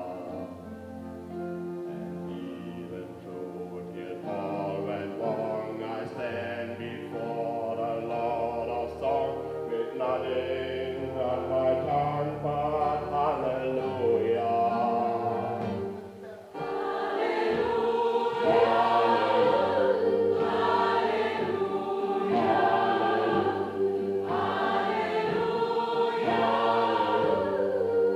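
Gospel choir singing, many voices in sustained harmony. It is softer at first, drops away briefly about sixteen seconds in, then comes back louder and fuller.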